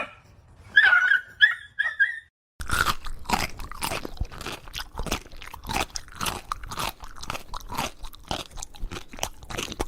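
A dog crunching and chewing something hard, a fast, irregular run of crunches starting about two and a half seconds in, after a few short high-pitched yips or whines.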